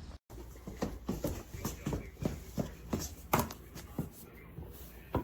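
A dog walking in boots, the soles tapping and scuffing on a hard floor in irregular steps, a few strikes louder than the rest. A brief dead gap comes right at the start.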